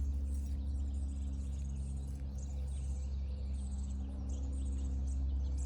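Small birds chirping faintly over a loud, steady low rumble and hum.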